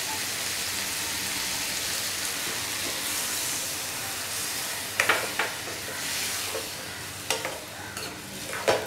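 Diced vegetables sizzling in a hot kadai as a cup of water is added. From about five seconds in, a metal ladle stirs and scrapes against the pan, with several sharp clinks, the loudest near the end.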